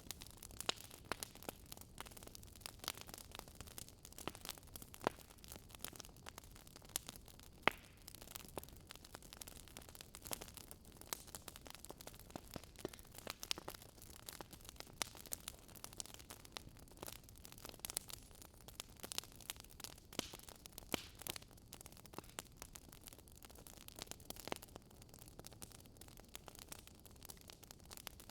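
Fireplace crackling: a faint low hiss with many irregular snaps and pops, a few of them sharper than the rest.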